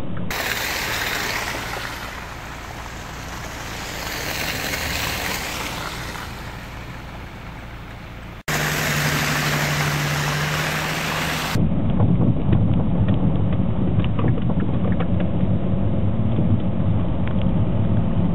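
City street traffic noise heard through several cut-together clips: a steady hiss-like haze at first, then, after an abrupt change, a steady low engine hum, and after another cut a low traffic rumble with small ticks.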